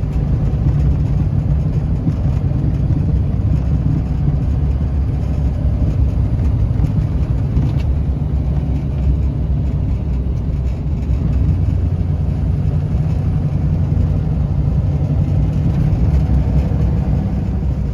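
2009 Duramax 6.6-litre V8 turbodiesel pickup driving along, a steady low engine and road rumble.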